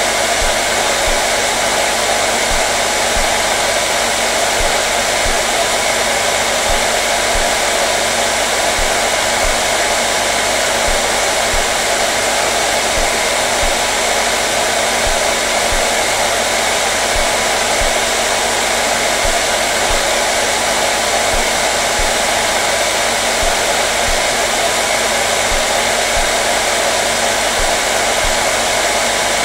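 Electric hair dryer running steadily, a continuous blowing noise with a constant motor hum.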